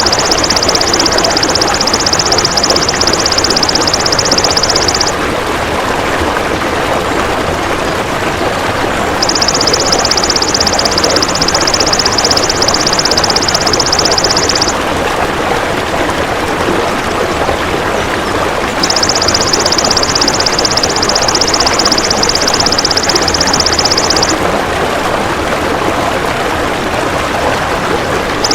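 Belalang emas (golden grasshopper) buzzing in long, high-pitched, rapid trills of about five seconds each, three times, roughly ten seconds apart. Underneath runs a steady rushing sound of flowing water.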